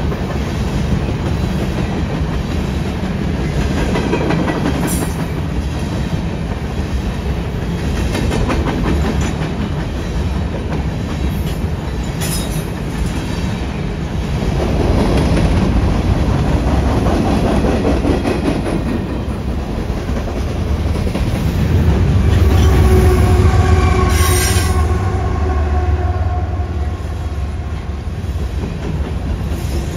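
A CSX freight train of loaded covered hopper cars rolling past close by, steel wheels clacking and rumbling over the rail joints, with a few brief high wheel squeals. About two-thirds of the way through, mid-train diesel locomotives pass with a louder, deeper engine rumble and a steady whine.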